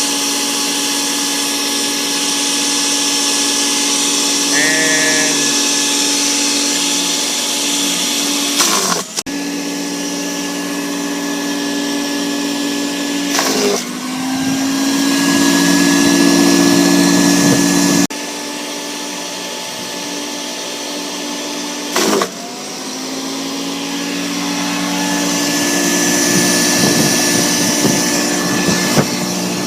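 Harbor Freight wood chipper running with a steady motor whine while grinding whole bait fish into chum. Three times a sharp knock as fish go through, with the motor bogging down briefly and winding back up.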